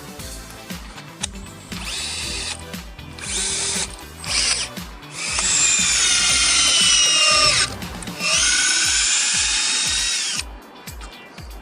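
Bosch EasyImpact 18V-38 cordless hammer drill boring 5 mm holes in a wall, in four bursts; the motor whine drops in pitch as the bit loads up. Background music with a steady beat plays underneath.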